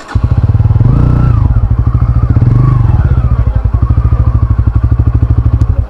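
Engine running close by, loud, with a fast, even pulse and a couple of slight rises in pitch; it starts abruptly and cuts off abruptly.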